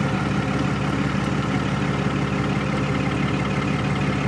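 Wheel loader's diesel engine running steadily. Its speed steps up at the start, then it holds an even, higher note.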